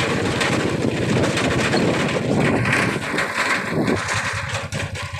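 Small motorcycle engine running with a rapid, even pulsing, dipping in level near the end.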